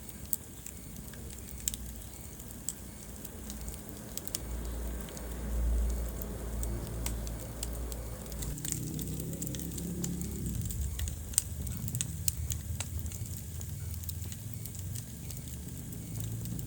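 Wood fire burning in a fireplace: irregular sharp crackles and pops from the burning logs over a low, steady rush of flame, with one louder pop a little past the middle.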